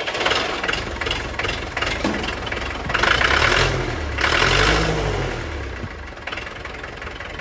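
International A414 tractor engine running, revved up about three seconds in and falling back to a steady run near the end.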